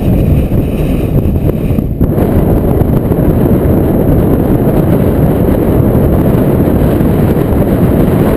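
Strong dust-storm wind buffeting the microphone: a loud, steady, rumbling rush with no letup.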